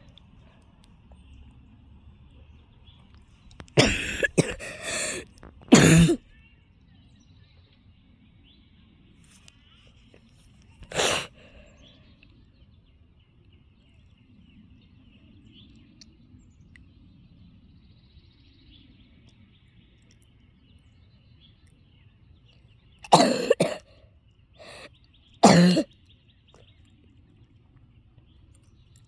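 A person coughing in bouts: a cluster of harsh coughs about four seconds in, a single cough around eleven seconds, and another cluster of coughs near the end. The coughing comes from someone who is ill.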